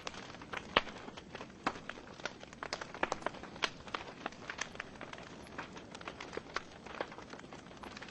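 Wood logs burning in a fireplace, crackling with irregular sharp pops over a low steady hiss; the loudest pop comes just under a second in.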